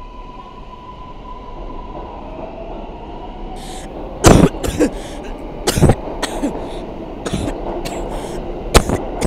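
Subway train running with a steady low rumble; from about four seconds in, a person coughs hard several times at irregular intervals.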